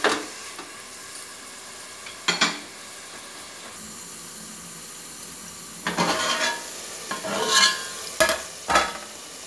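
Sliced onions and tomatoes frying in oil and ghee in an aluminium pot, a steady sizzle throughout. Sharp metal clanks of the pot's lid cut through it, one about two seconds in and several more near the end as the pot is uncovered.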